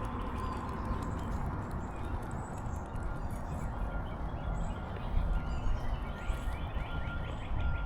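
Footsteps walking along a trail over a low rumble, with birds chirping and trilling faintly in the background.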